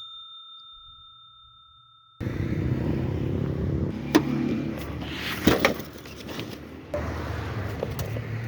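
A bell-like ding with a clear ringing tone dies away over the first two seconds, then cuts off suddenly into outdoor traffic noise with a few sharp clicks and knocks.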